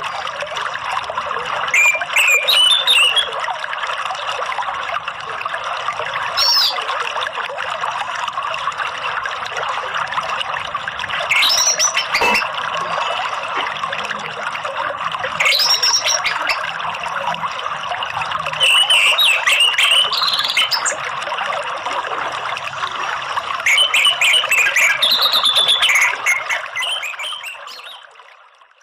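Steady running water, like a trickling stream, with short bird chirps every few seconds. The track fades out near the end.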